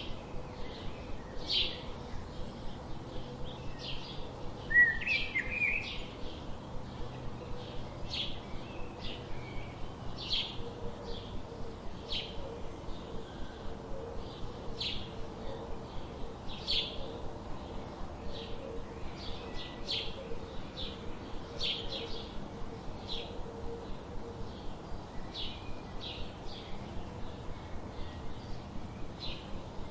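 Birds chirping: short high chirps repeating evenly, about two or three a second, with one louder warbling call about five seconds in.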